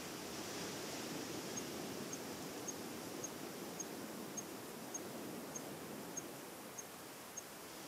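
Steady outdoor background noise at the waterside. From about a second and a half in, a regular series of short, high-pitched pips comes in, roughly one every 0.6 seconds.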